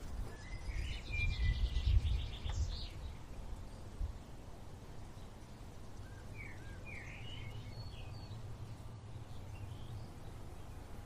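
Birds chirping in two bouts of short calls, one at the start and another about six seconds in, over a steady low rumble.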